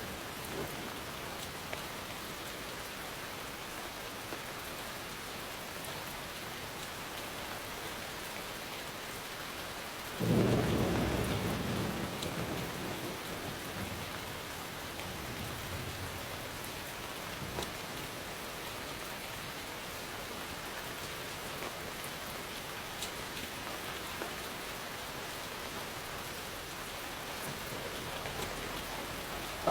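Steady heavy rain falling, with a thunderclap about ten seconds in that rumbles and fades away over several seconds.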